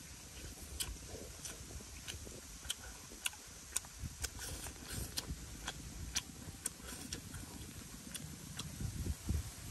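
Close-up eating sounds: a mouth chewing and smacking, giving irregular sharp clicks about twice a second over a low rumble.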